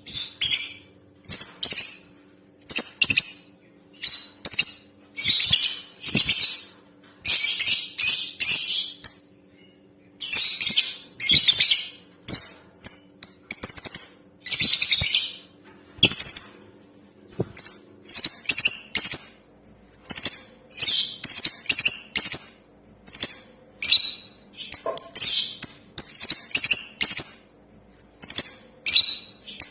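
Female lovebird chattering in short, rapid, shrill bursts about once a second, with a few longer runs. These are calls of the kind played to male lovebirds to set them singing.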